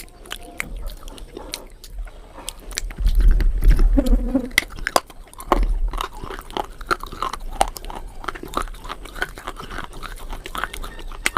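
A person biting and chewing something crunchy close to the microphone: a steady run of crisp crunches and chewing. A brief hum comes about four seconds in.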